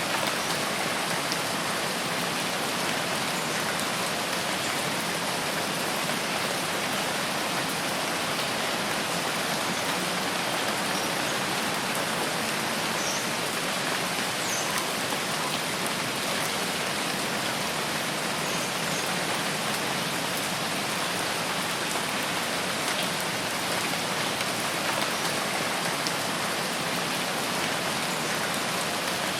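Steady rain falling on foliage and ground: an even, unbroken hiss of many drops.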